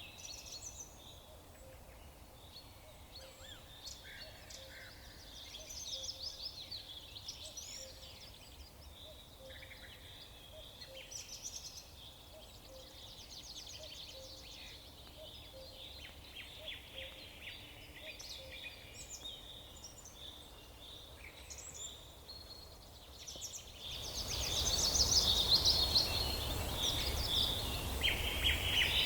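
Several songbirds chirping and trilling at once, short overlapping calls and quick trills. About 24 s in, a steady hiss-like background comes in and the whole sound gets louder, the birds still singing over it.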